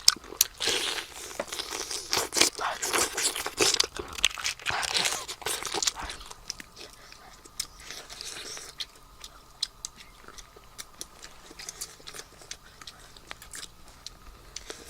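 Crunching and tearing, with dense crackly bursts in the first six seconds, then softer scattered clicks.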